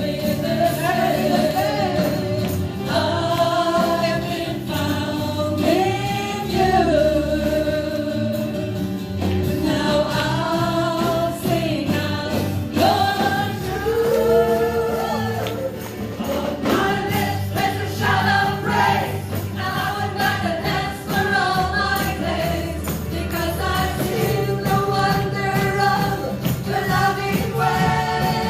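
Worship music: a group of voices singing a gospel song together over a live band, with tambourine-like percussion keeping time.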